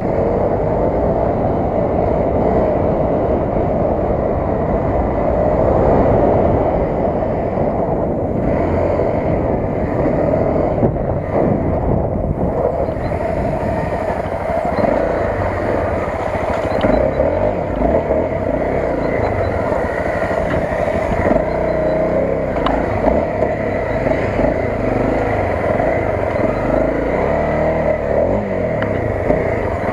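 Honda CRF250 dirt bike's single-cylinder four-stroke engine running while it is ridden, the engine note rising and falling with the throttle.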